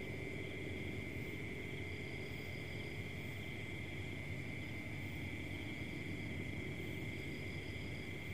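Steady, unbroken chirring of night insects (crickets), a constant high-pitched drone, over a low background rumble.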